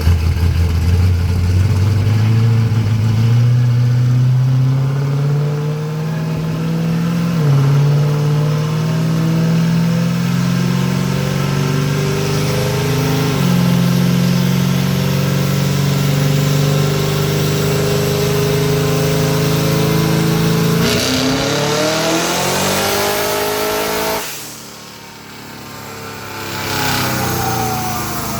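Twin-turbocharged engine of a 1971 Camaro on a chassis dyno, revving up steadily with two brief drops in pitch along the way. Near the end it makes a hard pull, its pitch sweeping up fast for about three seconds before cutting off sharply, then winding down with falling pitch.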